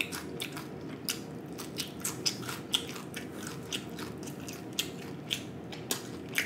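Close-miked chewing of crispy whole fried snapper, carefully, around the bones: soft mouth sounds with a scatter of sharp, irregular crunches and clicks.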